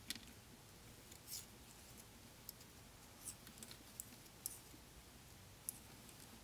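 Knitting needles clicking faintly as stitches are knitted: a handful of short, irregular clicks over a near-silent background.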